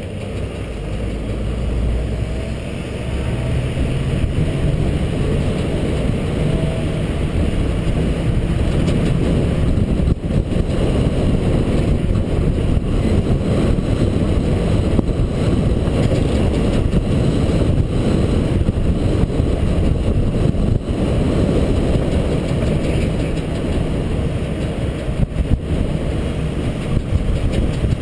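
International 4300 dump truck driving, its diesel engine running under a steady rumble of road and wind noise. The sound builds over the first few seconds as the truck picks up speed, then holds steady.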